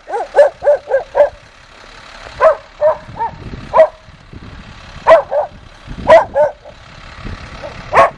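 Small dog barking in short, high yaps, in bursts of two to five, with a low vehicle engine rumble underneath.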